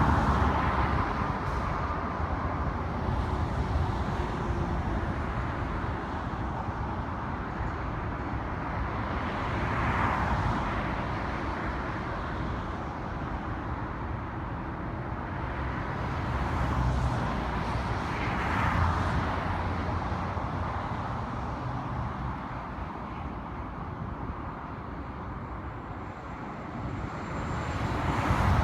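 Outdoor background noise: a steady low rumble and hiss that swells and fades about every eight or nine seconds.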